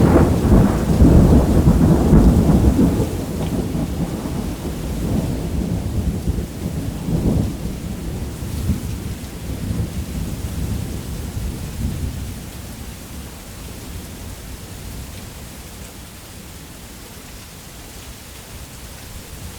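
A long roll of thunder, loud at first and rumbling lower as it dies away over about twelve seconds, over steady heavy rain that carries on alone near the end.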